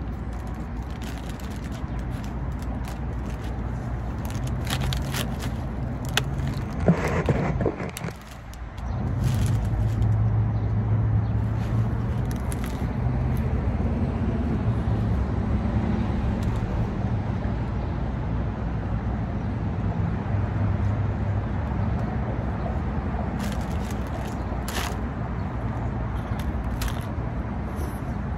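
Steady low hum of a car engine running, with scattered crisp crunches as a hard-shell taco is bitten and chewed and crackles of its paper wrapper.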